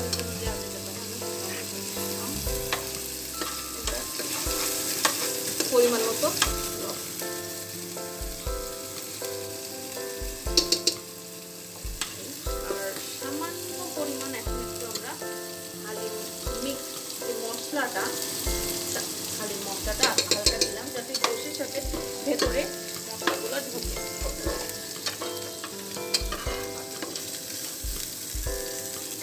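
Chopped onion sizzling as it fries in hot oil in a pan, with a spatula stirring and scraping against the pan at irregular moments.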